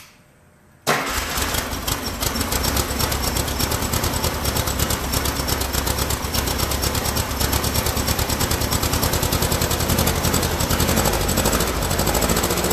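Freshly built air-cooled Volkswagen flat-four engine on its first start-up, bursting into life about a second in and then running steadily with a rapid pulsing beat. Only one of its two carburetors has fuel so far.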